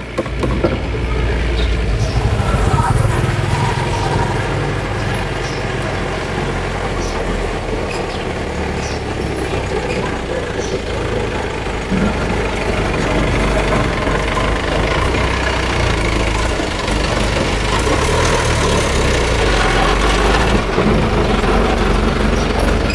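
A motor running steadily with a constant low hum, under a haze of noisy hiss and a few light ticks.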